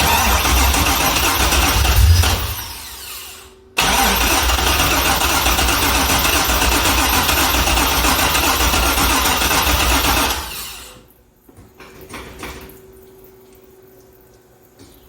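Junkyard LS V8 in a 2005 C6 Corvette cranking on the starter without catching, in two spells: about two seconds, then, after a brief break, about six and a half seconds more before winding down. It is a no-start on another cranking attempt.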